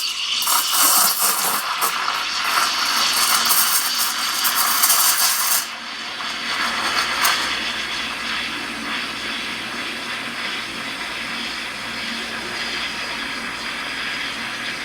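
Espresso machine steam wand frothing milk in a pitcher: loud hissing with a crackly, spitting edge for about the first six seconds while air is worked into the milk, then a quieter, steady hiss as the milk is heated toward about 70 °C.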